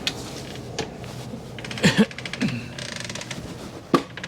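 Storm door being moved on its loose hinge, whose screws have fallen out: short creaks and a stretch of fast rattling clicks, then a sharp knock near the end.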